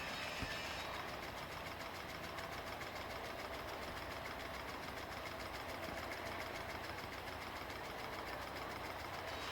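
Water-turbine drive of a 1989 Odra hose-reel irrigator running, a steady fast mechanical clatter that sets in about a second in.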